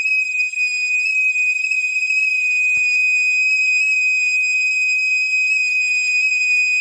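A steady, unwavering high-pitched tone, like a held whistle or test tone, with a faint click about three seconds in.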